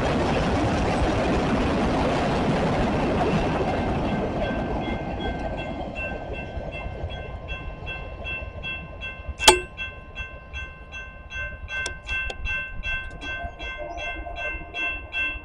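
CSX freight train passing, its rumble fading over the first few seconds. As it fades, a railroad crossing bell rings steadily at about two strokes a second. A single sharp knock about halfway through is the loudest moment.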